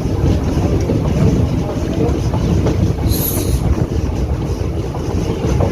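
DEMU (diesel-electric multiple unit) train running, heard from on board: a steady rumble of wheels on the rails, with a short high hiss about three seconds in.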